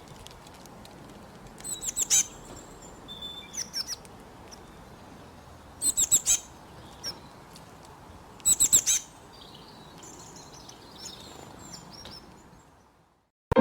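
Birds calling: three loud bursts of quick, high chirps, each a run of about four notes dropping in pitch, a few seconds apart. Fainter calls come in between over a steady background hiss.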